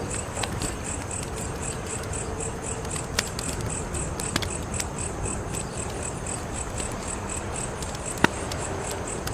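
Wood fire crackling, with a steady hiss and a few sharp pops, the loudest about eight seconds in. Crickets chirp behind it in a fast, even high-pitched rhythm.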